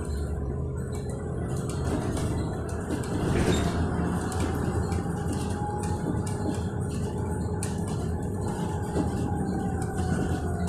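Electric bus in motion, heard from inside the cabin: the traction motor's whine rises in pitch, holds, then slowly falls near the end, over a steady road rumble with small rattles and clicks.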